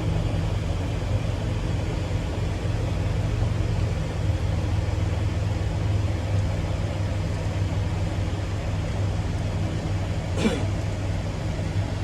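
A vehicle engine running steadily with a low, even hum. A brief sharp sound cuts in about ten and a half seconds in.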